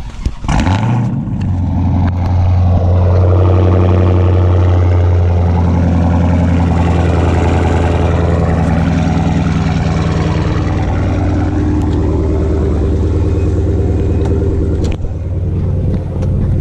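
A 2016 Dodge Charger Hellcat's supercharged 6.2-litre Hemi V8 fires up about half a second in with a short rev, then settles into a steady idle through the stock exhaust, heard close to the tailpipe.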